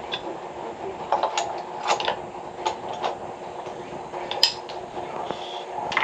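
Irregular clinks and knocks of hard objects being handled, such as tools and pipe fittings, over a steady background noise, with one louder knock about four and a half seconds in.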